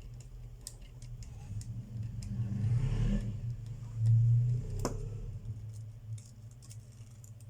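Small, light clicks and taps of tools and screws on a smartphone's frame during reassembly, over a steady low hum that swells twice in the middle.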